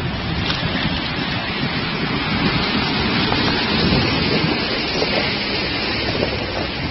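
Vehicle driving through a river crossing: loud, steady rushing and splashing of water with a low rumble underneath.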